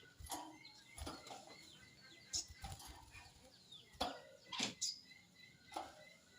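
Caged sogon bird (crested jay) moving about its cage, with a series of sharp knocks and flutters about a second apart and a couple of short high chirps.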